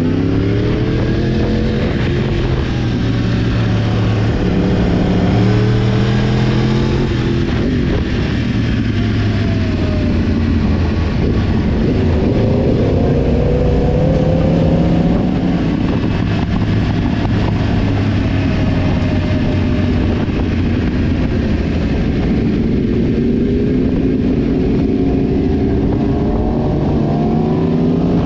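Yamaha sport motorcycle engine under way, its pitch climbing and dropping several times as it revs through the gears and eases off, over a steady rush of wind and road noise.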